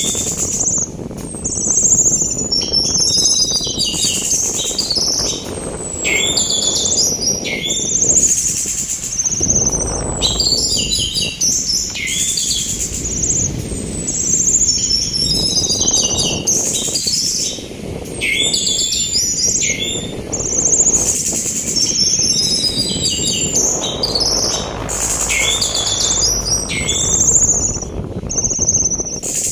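Orange-headed thrush (anis merah) singing in quick repeated phrases of high, falling whistles and rapid notes, about one phrase every two seconds. The song is over a steady rush of sea wind that swells and eases.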